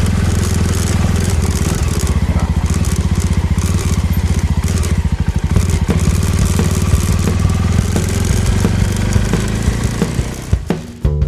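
Suzuki motorcycle engine running as the bike pulls away and rides, with a fast, steady pulse and wind and road noise over it. Just before the end it fades out and guitar music begins.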